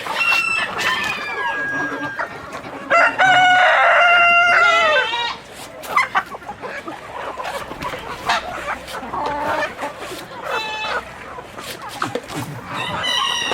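Chickens clucking, with a rooster crowing once about three seconds in: a long, loud crow of about two seconds that is the loudest sound, followed by more short calls.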